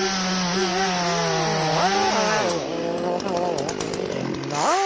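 Chainsaw engine running under load while cutting, its pitch wavering, then dropping about two and a half seconds in and climbing back up near the end as the revs are let off and picked up again.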